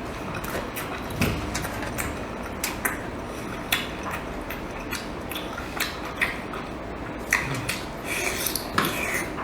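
Close-up eating sounds: scattered small crunches, wet lip smacks and light clicks, a few each second, over a steady background hiss.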